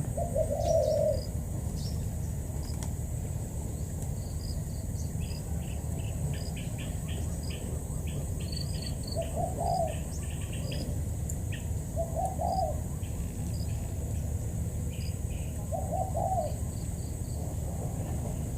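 Spotted dove cooing: three short coo phrases a few seconds apart, with small birds chirping high above and insects trilling.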